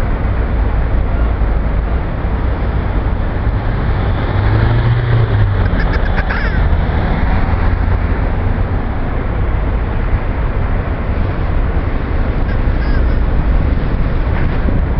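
Steady low rumble of road traffic, with a short, high, wavering call about six seconds in.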